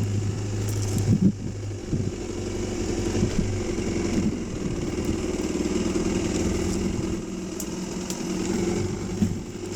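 Dirt bike engine running steadily, with a few short knocks about a second in.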